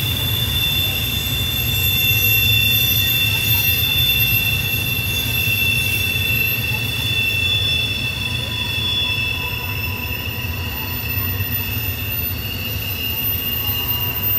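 Norfolk Southern intermodal freight train rolling past with a steady high-pitched wheel-flange squeal, two held tones over the low rumble of the cars. The squeal comes from the wheel flanges grinding against the rail on the sharp curve.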